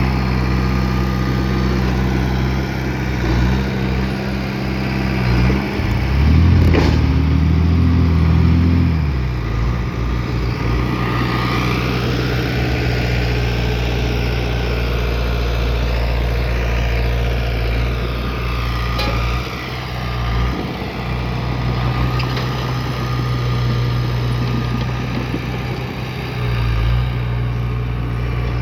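Bulldozer's diesel engine running steadily, with a sharp knock about seven seconds in and the engine note shifting and getting louder for a few seconds around it, as under load.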